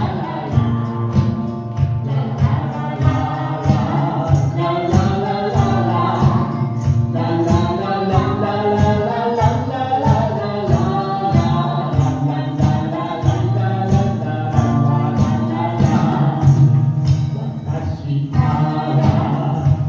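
A live pop song with singing voices over an accompaniment with a steady beat.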